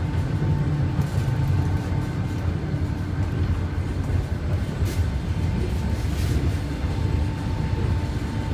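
Russian passenger train heard from inside an open-plan sleeper carriage: a steady low rumble with a constant hum over it, and a couple of faint clicks about midway.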